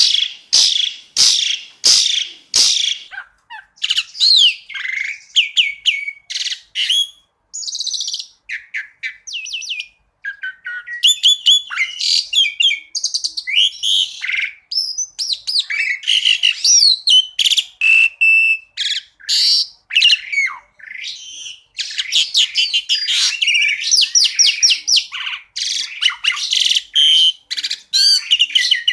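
Javan pied starling (jalak suren) singing a varied, rapid song. It opens with a run of sharp, loud clicking notes, then carries on in fast chattering trills, quick whistles and slurred notes broken by short pauses.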